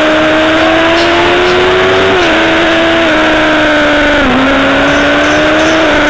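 Kawasaki ZX-10R inline-four engine at high revs under way, its pitch climbing steadily and dropping back sharply a few times, with a dense rush of wind noise over the onboard microphone.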